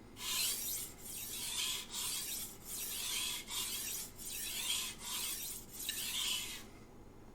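Knife steel scraping across a Shapton Glass 500-grit whetstone in a run of about eight quick strokes with short gaps between them, stopping shortly before the end. These are light strokes on a hard stone to remove the burr and set a microbevel.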